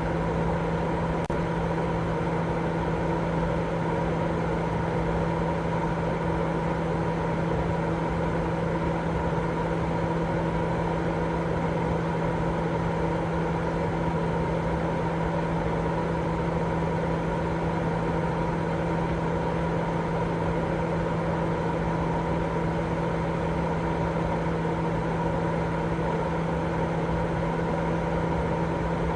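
Continuous white noise for baby sleep: a steady, unbroken rushing noise, heavier in the low and middle range than the high, with a constant low hum running through it.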